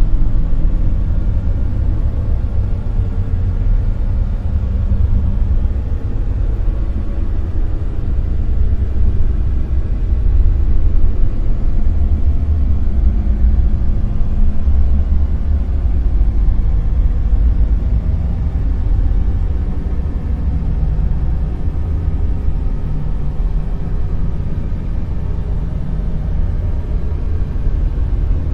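Dark noise: a steady, deep rumbling noise weighted heavily to the bass, with little treble, slowly swelling and easing in waves.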